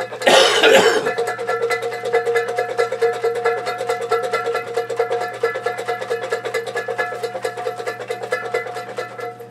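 Fast, evenly picked plucked-string music in a banjo or mandolin style, running steadily. About a quarter second in there is a brief loud noisy burst lasting under a second, louder than the music.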